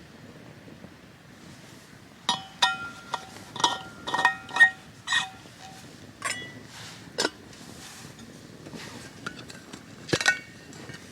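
Metal camp cookware clinking: a series of sharp metallic taps with a ringing tone, as of a spoon against a metal mug. The taps come quickly for a few seconds, then sparsely, with one louder clank near the end.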